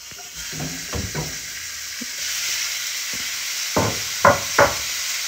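Diced raw chicken sizzling as it drops into a hot cast-iron skillet, the sizzle building over the first couple of seconds and then holding steady. A few knocks sound through it, a pair about a second in and three in quick succession near the end.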